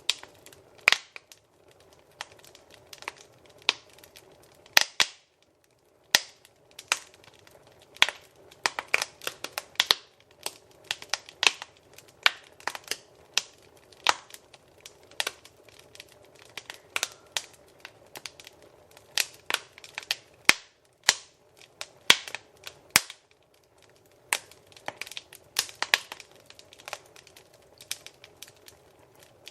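Wood fire crackling in a fireplace: irregular sharp pops and snaps, several a second, over a soft steady hiss of the flames.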